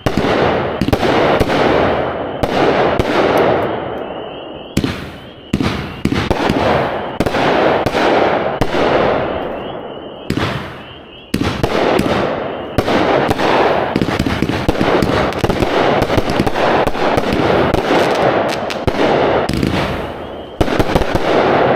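A 30-shot 500 g fanned firework cake firing shot after shot: sharp launch reports and bursting breaks in quick clusters, with short lulls about four and ten seconds in.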